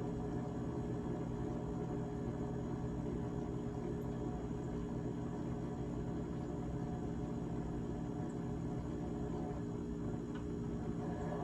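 GE GTH18XCTZRBB refrigerator running: a steady hum made of several low tones, unchanging throughout.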